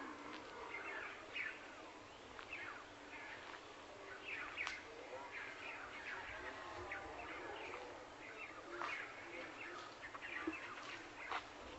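Several birds chirping and calling, many short chirps and quick down-slurred whistles, over a faint steady outdoor hiss.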